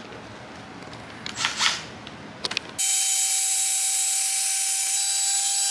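Power drill running at a steady speed with a high, hissy whine, which starts abruptly about three seconds in; before that there is only faint low noise.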